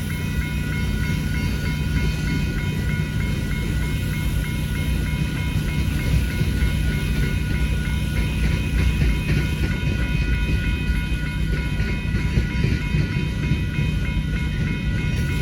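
Freight cars of a long manifest train rolling through a grade crossing, a steady low rumble with wheel clatter, while the crossing bell rings on in a regular pulse. A generator drones underneath.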